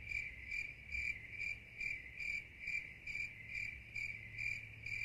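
Crickets chirping in an even rhythm, about two chirps a second.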